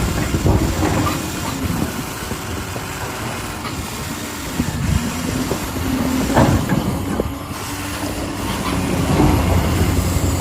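Radio-controlled construction vehicle running, its electric motors and gears giving a steady hum and rattle, with a few sharp clacks in the middle.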